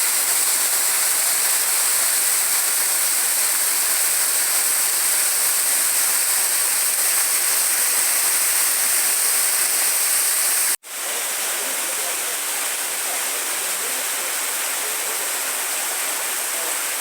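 Waterfall, its falling water rushing steadily. The sound drops out for an instant about eleven seconds in and comes back a little quieter.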